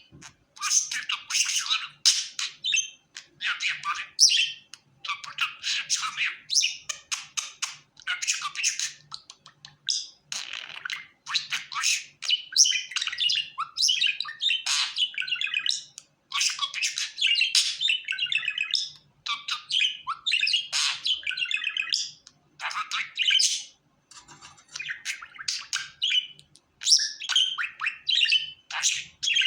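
Pet budgerigar warbling and chirping in fast runs of chatter, broken by short pauses every few seconds.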